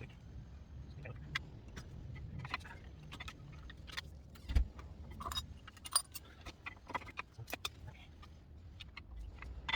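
Irregular metallic clinks and taps of hand tools and brake parts being handled during a front brake job, with a dull thump about four and a half seconds in.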